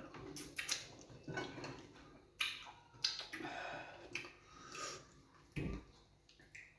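Close-up eating sounds: irregular chewing, lip-smacking and small mouth clicks of people eating fufu with groundnut soup.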